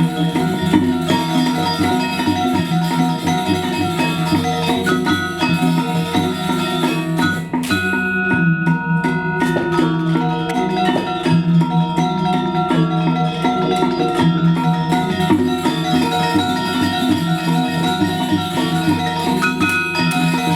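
Balinese gamelan playing Legong dance music: bronze metallophones ringing in a dense, steady, interlocking texture.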